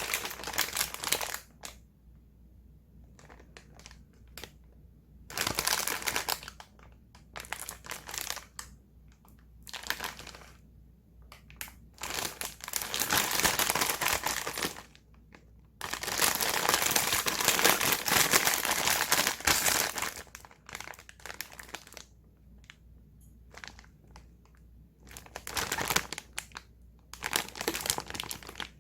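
Plastic instant-noodle packaging being crinkled and handled in irregular bursts, with two longer stretches of steady crinkling in the middle.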